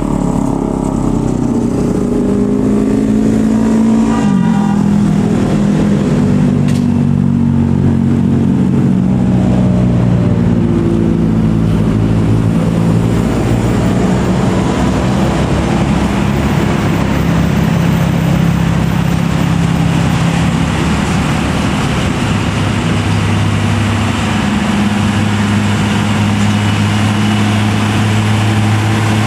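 Heavy truck's diesel engine pulling hard up a steep climb. Its note drops about four seconds in, then holds steady under load.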